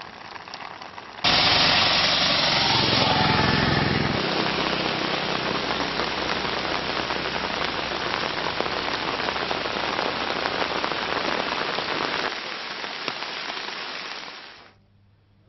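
Steady rain noise that cuts in abruptly about a second in, with a low rumble under it for the first few seconds, easing slightly and fading out near the end.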